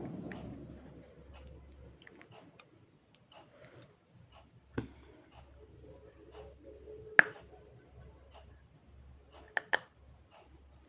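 Slate pencil being bitten and chewed: scattered sharp crunches and clicks, the loudest about seven seconds in and a quick pair near the end.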